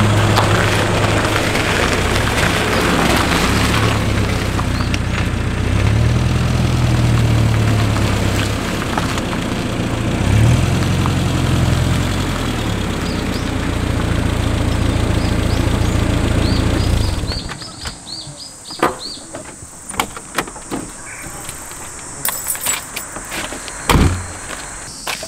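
A classic Rover Mini's four-cylinder engine runs as the car pulls in and stops, its note rising and falling twice. The engine is switched off about two-thirds of the way through, and it goes quiet suddenly. After that come footsteps on gravel and one sharp thump near the end.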